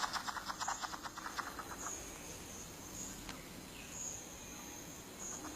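Rainforest insects: a rapid dry rattle of about ten clicks a second that fades out about two seconds in, then a high thin insect buzz that comes and goes several times.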